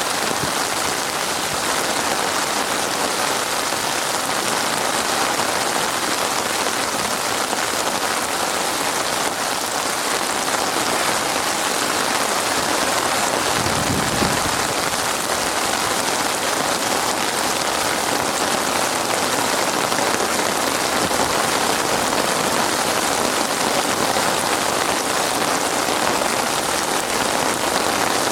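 Heavy rain falling steadily, a dense even hiss of drops hitting surfaces. About halfway through there is one brief low thump.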